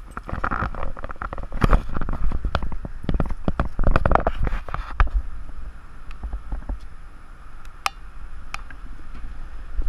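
Heavy rain pouring down, with many sharp drop hits that grow sparser after about five seconds, over a low rumble.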